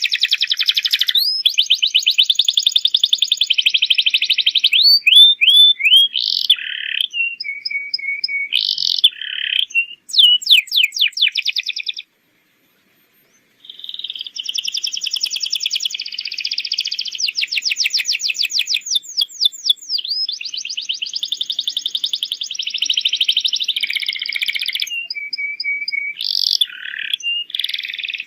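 Domestic canary in full song: a long run of fast trills, rolls and chirped notes. The song breaks off briefly a little under halfway through, then resumes.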